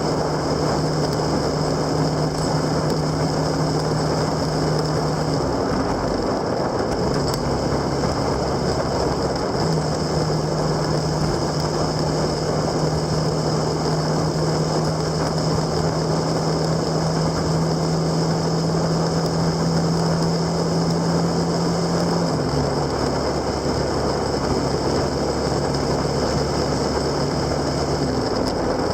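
Motorcycle engine running steadily while riding, with a constant rush of wind and road noise. The engine note changes pitch about six seconds in, again near ten seconds and again around twenty-two seconds, as with gear or speed changes.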